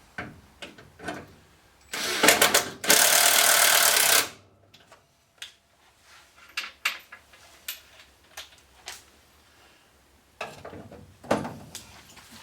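Cordless power tool driving door hinge bolts: a short burst about two seconds in, then a second and a half of steady running. Clicks and clinks of tools and hardware come before and after.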